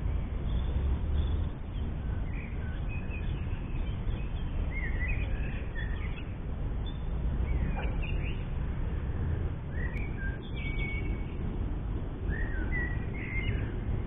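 Songbirds chirping and warbling in short phrases every second or two, over a steady low rumble.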